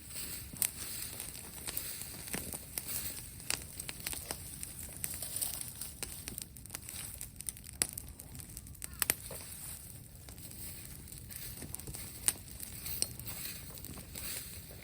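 Dry brush and wood crackling and snapping in irregular sharp clicks, scattered through the whole stretch with a few louder snaps.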